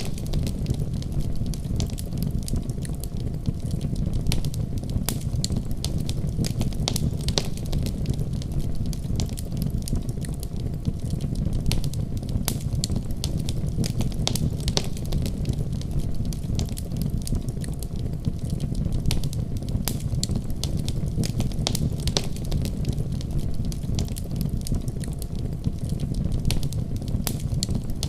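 Wood fire burning in a fireplace: a steady low rumble of the flames with frequent sharp crackles and pops throughout.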